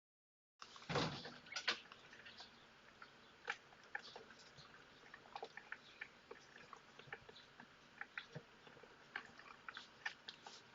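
A cat chewing and crunching food: faint, irregular crisp clicks, a louder cluster about a second in.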